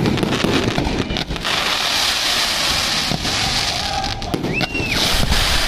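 Aerial fireworks bursting one after another in a dense run of bangs and crackles, with a short whistle rising and falling near the end.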